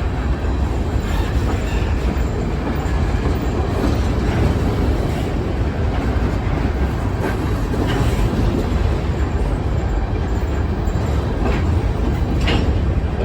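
Covered hopper grain cars of a freight train rolling past, a steady rumble of wheels on rail with a few sharp clicks from wheels crossing rail joints.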